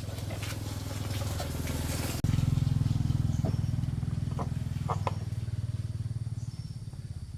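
Motorbike engine running steadily with a fast, even firing beat, suddenly getting louder about two seconds in.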